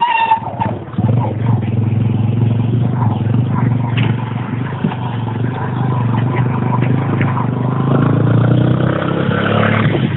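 Motorcycle engine running under way, a steady low drone that climbs a little in pitch near the end.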